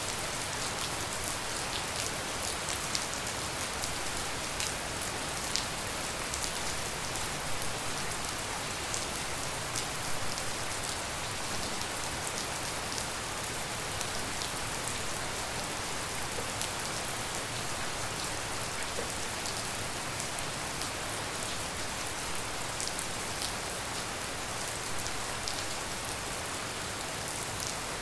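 Steady tropical rain falling, with many scattered sharp hits of single drops on nearby surfaces.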